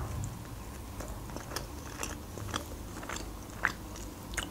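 A woman chewing a bite of burger close to the microphone, soft wet mouth clicks scattered through the chewing.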